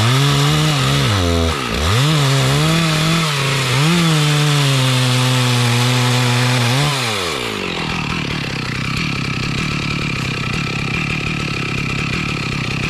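Two-stroke chainsaw cutting mahogany wood, its engine pitch dipping and recovering as the chain bogs under load. About seven seconds in it falls off to a lower, steady idle.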